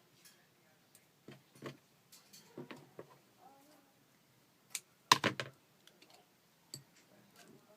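Scattered light clicks and taps of small craft materials and tools being handled on a work surface, with a louder quick cluster of clicks about five seconds in.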